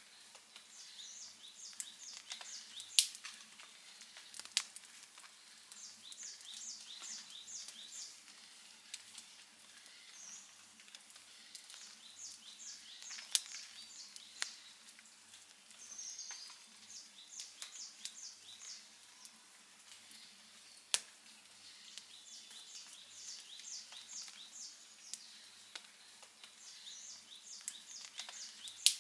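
Wood campfire crackling with a soft hiss and scattered small snaps, and about five loud sharp pops spread through. Runs of quick, high chirps come and go in the background.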